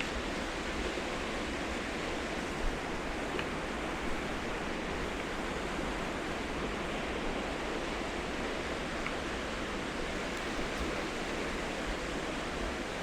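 Waterfall rushing in a steady, even roar of falling water, with a couple of faint clicks about three and four seconds in.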